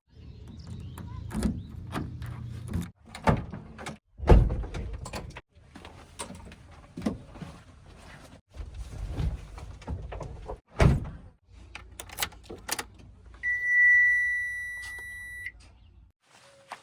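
Heavy diesel machinery running in short cut-together stretches, a low engine rumble broken by repeated sharp knocks and thumps. A steady high-pitched beep sounds for about two seconds near the end.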